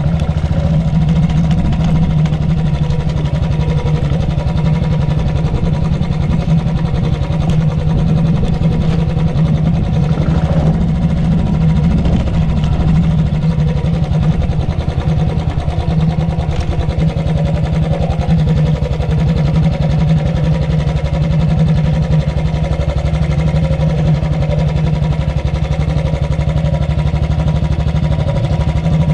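Royal Enfield Thunderbird's single-cylinder engine running steadily at an even pace, with its typical thump.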